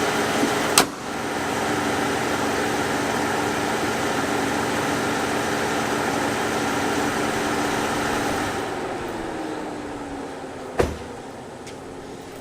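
Dodge Charger idling with a steady engine and fan hum. A sharp click comes about a second in. Around eight and a half seconds in the hum drops away, leaving a slowly falling whine, and another sharp click comes near the end.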